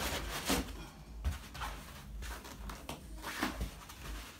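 Black packing foam being handled and pulled from a cardboard shipping box: irregular rustling and scraping, loudest about half a second in and again near three and a half seconds.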